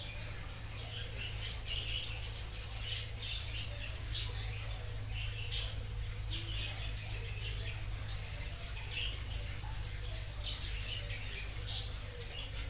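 Birds chirping, with a few short high chirps spaced seconds apart. Under them run a steady high-pitched whine and a low background hum.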